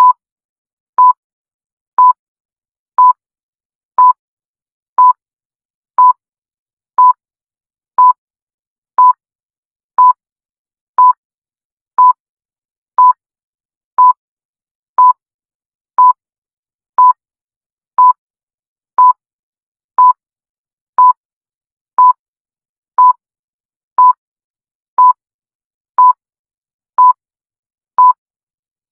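Electronic countdown-timer beeps: one short beep each second, always at the same pitch, with silence in between.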